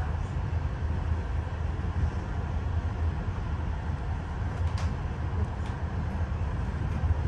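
Train hauled by an SU42 diesel locomotive in motion: a steady low rumble, with a faint click about five seconds in.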